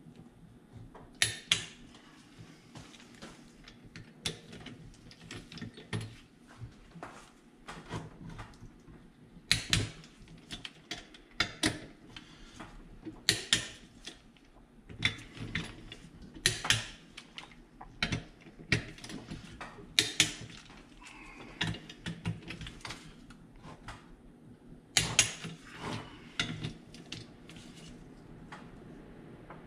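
Torque wrench tightening engine crankcase bolts in sequence: sharp ratchet clicks come in short clusters every second or two.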